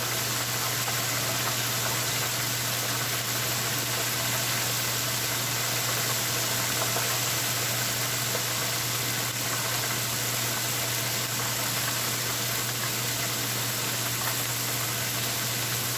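Thin pounded chicken breast frying in hot oil: a steady sizzling hiss, with a constant low hum underneath.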